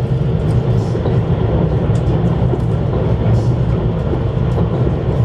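Steady low rumble of a CRH1A-A electric multiple unit running along the line, heard from inside the passenger car, with faint scattered ticks over it.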